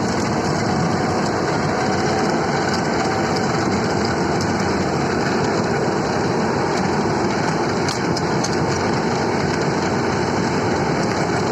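Bobcat S650 skid-steer loader's diesel engine running steadily under load while its cold-planer (milling) attachment grinds through the surface, with a few sharp clicks about two-thirds of the way through.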